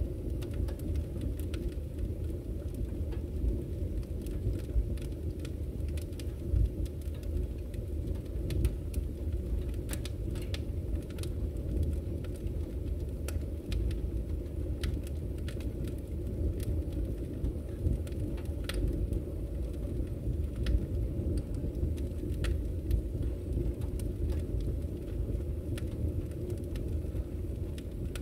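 Wood fire burning in a fireplace: a steady low rumble of flames with many small, irregular crackles and pops.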